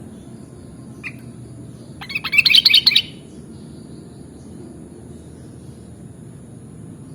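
Sooty-headed bulbul calling: a single short note about a second in, then a loud, rapid burst of bubbly notes lasting about a second.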